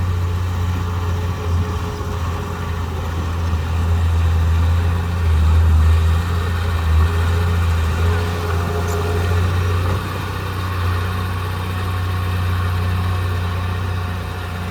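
Diesel engine of heavy earthmoving equipment running steadily with a deep, low hum, swelling slightly in level around the middle.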